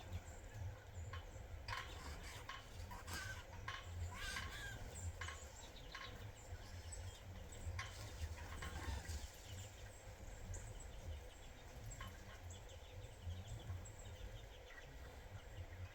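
Birds at a sunflower-seed feeder making many short chirps and chips, scattered irregularly, over a steady low rumble.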